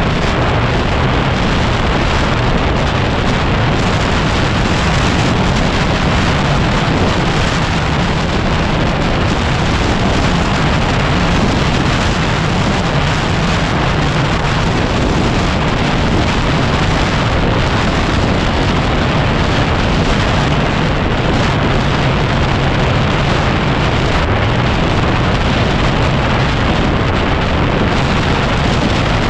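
Heavy wind noise rushing over the microphone, nearly covering a 2010 Yamaha WR250R's single-cylinder engine running steadily while riding.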